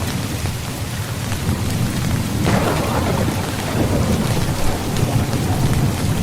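Steady heavy rain with low thunder rumbling underneath, and a louder clap of thunder about two and a half seconds in that rolls away over a second or two.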